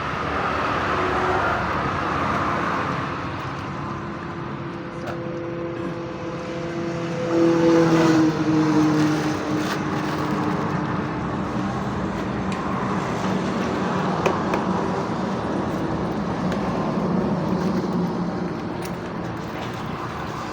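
Road traffic noise, with a vehicle passing loudest about eight seconds in, its engine tone falling slightly as it goes by.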